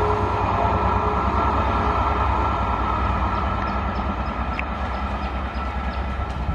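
Express passenger train's coaches running over the rails at speed: a steady rumble and clatter that slowly fades as the train moves away.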